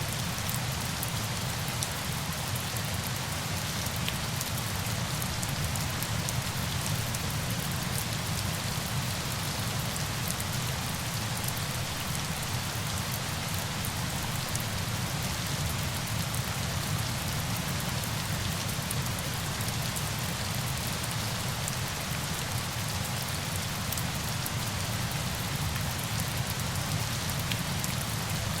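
Steady, unbroken rush of falling water, rain-like, with fine drop ticks scattered through it.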